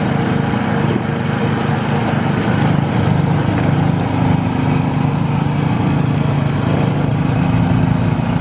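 Gasoline snowblower engine running steadily, its pitch shifting slightly about three seconds in.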